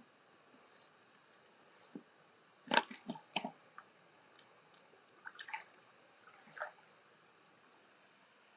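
Scattered wet clicks, knocks and squelches of a freshwater mussel being handled and opened for pearls, shell against shell and blade and wet flesh; the loudest cluster comes about three seconds in, with smaller ones near the middle and later.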